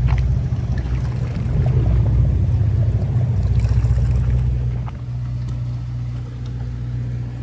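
A fishing boat's engine running with a steady low drone, rougher and a little louder for the first five seconds or so, then settling to an even hum.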